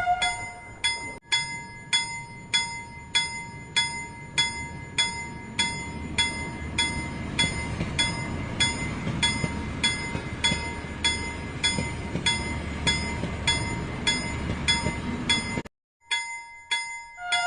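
Regular bell-like dings, about two a second, over a low rumble that swells in the middle and cuts out briefly near the end.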